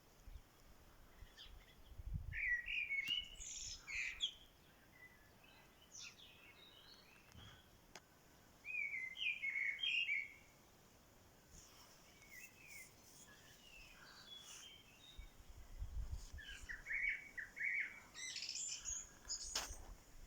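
Small birds chirping and twittering in several short bursts of quick, high notes, with quieter stretches between them.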